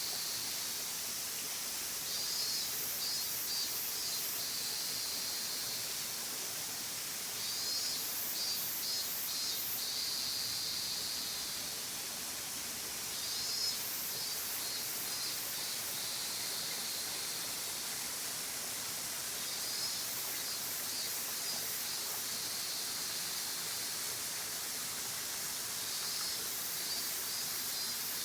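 Fudō Falls waterfall pouring steadily. Over the water, a high pulsing call that ends in a short held tone repeats about every six seconds, five times in all.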